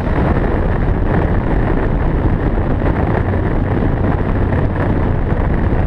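Cadillac CTS-V driving along a runway, its engine running steadily, with wind buffeting the car-mounted camera's microphone.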